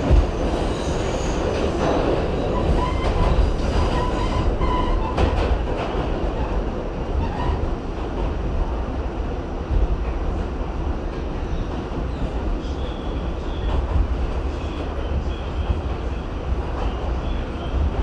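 R68 subway car running along the track: a steady rumble of wheels on rail, with a faint steady tone for a couple of seconds a few seconds in.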